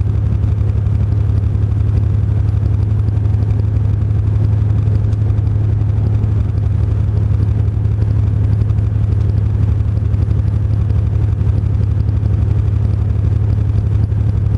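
Truck engine running with a steady, unchanging low drone and road noise, as on a steady cruise.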